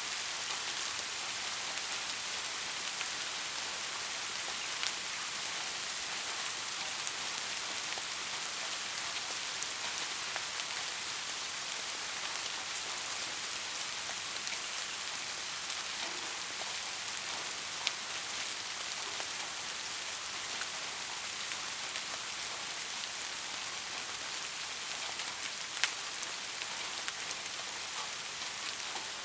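Steady soft rain falling, an even hiss with scattered individual drops ticking now and then.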